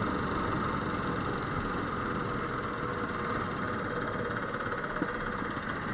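Motorcycle engine running steadily under an even rush of noise.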